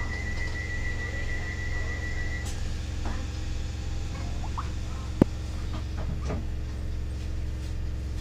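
Inside the carriage of a Class 313 electric multiple unit standing at a platform: a steady low hum. A high pulsing electronic tone stops about two and a half seconds in, followed by a few brief faint squeaks and one sharp click about five seconds in.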